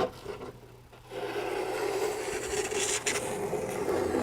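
Masking tape being peeled off drawing paper: a short knock at the start, then from about a second in a steady, continuous scraping rip.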